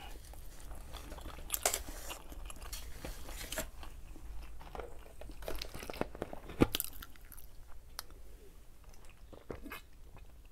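Close-miked chewing, with small wet mouth clicks and crunches scattered throughout, and one sharp, louder click about six and a half seconds in.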